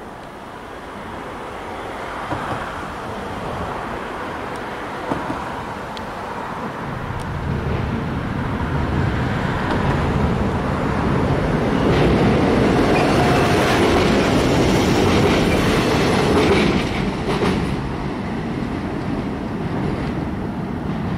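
A train passing on the rails, rumbling with rhythmic wheel clatter over the rail joints; it grows louder to a peak in the middle and then eases off.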